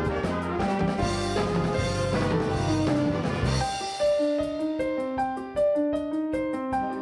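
A school jazz band playing, with brass and drums, until it stops about three and a half seconds in. A piano then carries on alone with a melody of single held notes.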